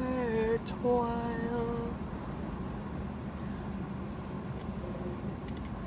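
A woman's voice sings a gospel line, holding its last word for about two seconds. Then comes the steady low rumble of road noise inside a moving car.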